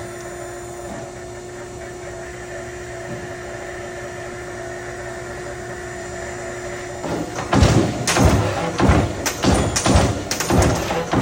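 Euromac MBX 6 Plus 30-ton CNC turret punch running with a steady hum for the first seven seconds or so, then punching: a quick run of sharp thuds, about two or more a second.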